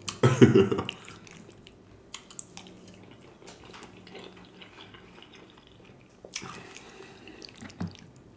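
Close-miked wet chewing and mouth clicks of a person eating, after a short vocal sound at the very start. A brief rustling scrape comes about six seconds in.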